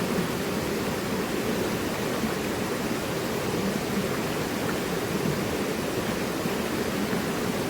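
Mountain river rushing over rocks: a steady, unbroken rush of water, strongest in the low-middle range, with no other events.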